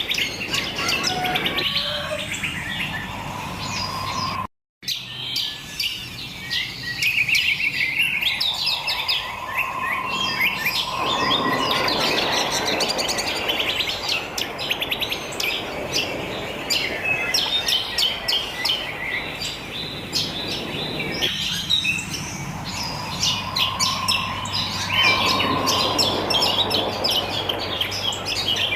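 Many wild songbirds chirping and twittering together in a dense, continuous chorus of quick high notes. The sound cuts out completely for a moment once, near five seconds in.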